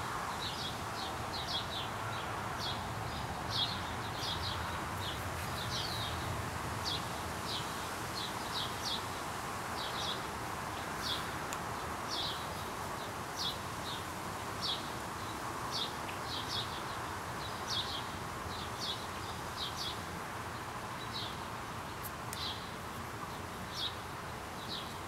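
A small bird chirping over and over, short high chirps about one or two a second, some in quick pairs, over a steady background hiss of outdoor noise.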